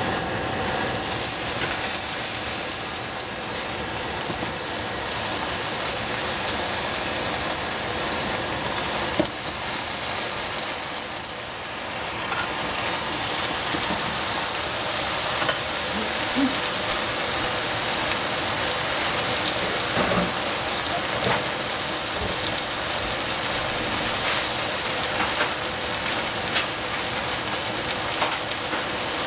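Shiitake mushrooms and Chinese baby cabbage sizzling steadily in a hot pan, with a few light clicks scattered through.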